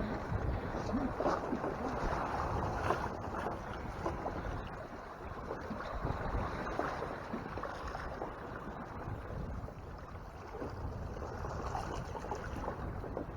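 Wind on the microphone and water rushing and splashing past the hull of a Hobie Tandem Island sailing kayak under sail.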